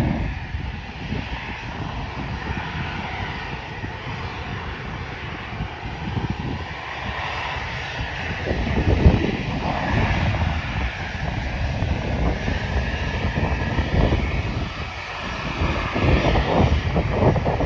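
Jet engines of an Airbus A320 airliner running as it taxis out: a steady whine over a rushing noise, swelling about halfway through.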